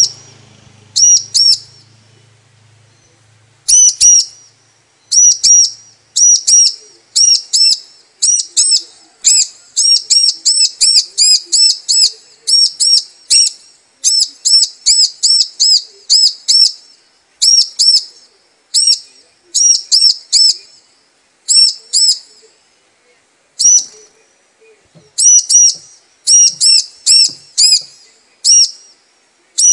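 Female bar-winged prinia (ciblek) calling to males: short, sharp, high chirps in quick runs of two to several notes, repeated with short gaps. There is a pause of about two seconds near the start, then the calls come thickly.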